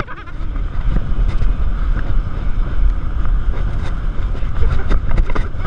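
Wind buffeting the microphone with a steady rushing of water, from an inflatable ride being towed at speed over the sea.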